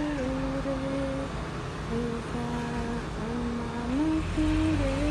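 A slow melody of long held notes that slide smoothly from one pitch to the next, over a low rumble that grows louder near the end.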